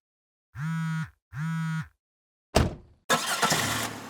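Two short, steady buzzing tones of the same pitch with dead silence between them, then a sudden hit that dies away and about a second of crashing, shattering noise: a synthetic intro sound effect.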